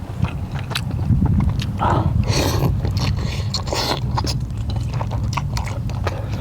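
A person chewing and biting into boiled samgyetang chicken close to the microphone: many small wet clicks, with two longer, louder bursts about two and three and a half seconds in. A steady low hum runs underneath.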